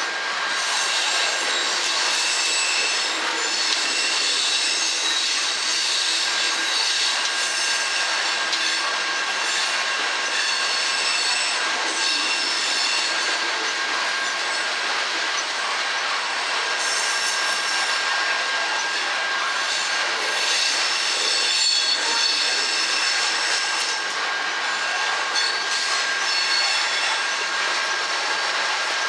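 Coal hopper cars of a freight train rolling past: a steady noise of steel wheels on rail, with high-pitched wheel squeals that come and go over it.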